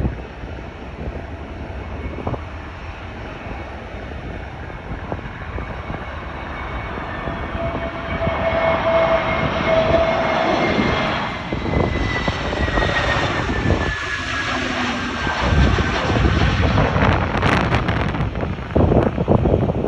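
Airbus A321neo jet engines (CFM LEAP-1A turbofans) flying past, a steady jet rumble that grows louder about a third of the way in, with a high whine sliding slowly down in pitch as the plane goes by. Wind buffets the microphone near the end.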